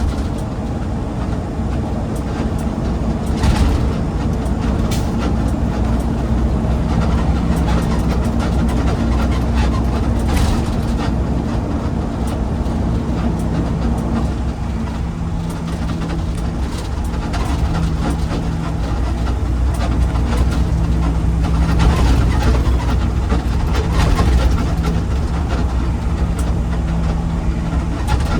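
A road vehicle driving: a steady low engine drone and road rumble. The engine note drops a little about halfway through, and there are a few short knocks and rattles.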